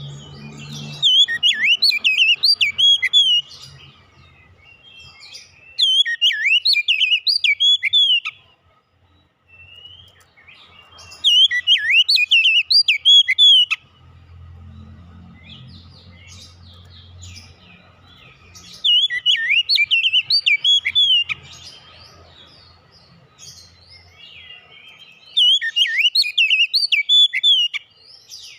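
Oriental magpie-robin (kacer) singing in five loud bursts of fast, whistled, warbling song, each about two seconds long and a few seconds apart.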